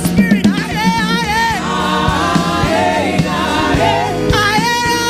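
Gospel worship singing with musical accompaniment, voices holding long, wavering notes.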